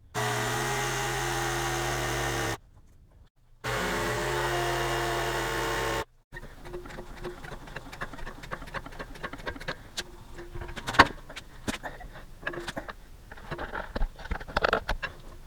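Small single-cylinder engine running steadily in two short edited bursts, each cut off abruptly, followed by scattered light clicks and knocks of metal being handled.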